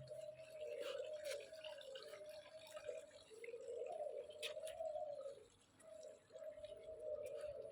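Several pigeons cooing in a small room, their low calls overlapping almost without a break. Two short sharp clicks come through, one about a second in and one near the middle.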